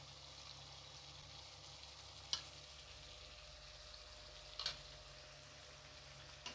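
Chicken masala with yogurt quietly sizzling in a kadai as it is stirred with a slotted steel spatula, with two sharp clinks of the spatula against the pan about two seconds apart.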